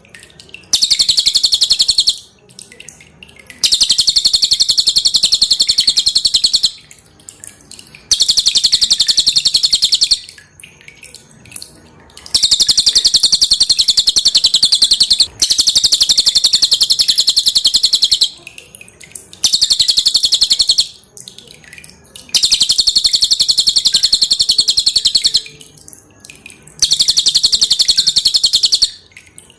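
Cililin (velvet-fronted nuthatch) singing: loud, rapid, high-pitched trills packed closely together, in bouts of a few seconds with short pauses between.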